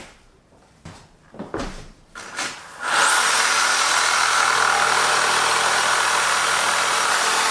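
A few light knocks and rustles, then about three seconds in an electric power tool starts abruptly and runs steadily at full speed.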